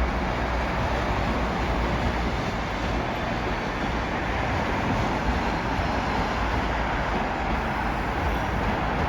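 A train running past: a steady rumble and rushing noise that holds an even level throughout, with no breaks or sudden sounds.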